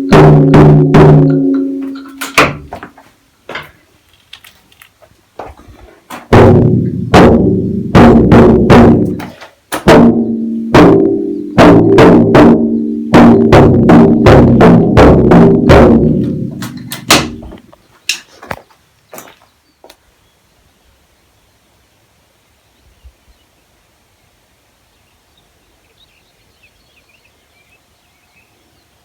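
A set of tuned drums being struck in a fast, uneven rhythm, each stroke ringing briefly at its own pitch. The playing thins out about three seconds in, picks up again about six seconds in, and stops about 18 seconds in after a few last strikes.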